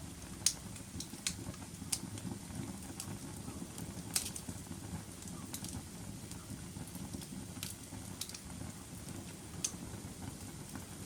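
Wood fire burning in a fireplace: a steady low rumble of flames with sharp crackles and pops every second or so, the loudest about half a second in and about four seconds in.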